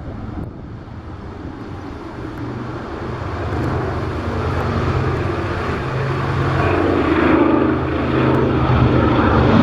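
Twin radial engines of a B-25 Mitchell bomber droning in flight, growing steadily louder as the aircraft approaches.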